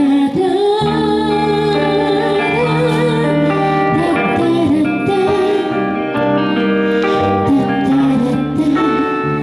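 Live band music: a pitched melody line over held chords and a steady bass, the instrumental introduction to a pop song, with no words sung.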